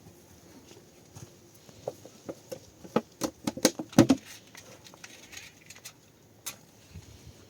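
A quick run of sharp taps and knocks, loudest about three to four seconds in, with one more tap later.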